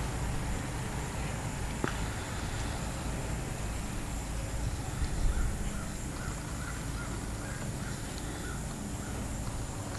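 A bird calling in the distance, a run of short repeated calls starting about halfway through, over a steady low outdoor rumble.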